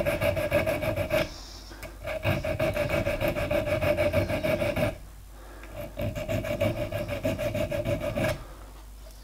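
Diamond-coated needle file rasping along the chamfered edge of a gear-cutting tool's tooth, breaking the edge toward a radius. The file goes in three runs of quick, even strokes with short pauses between them.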